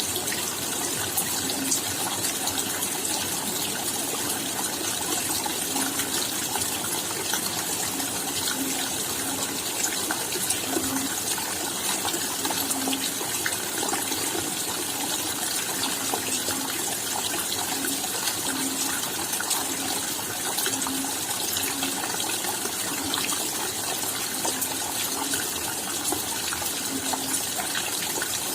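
Steady rain: an even hiss with many separate drop hits throughout, and short low plops recurring at irregular intervals.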